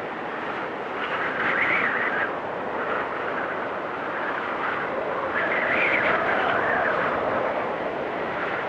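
Wind storm: a steady rush of wind with a whistling tone that wavers up and down in pitch, swelling in gusts about a second and a half in and again around six seconds.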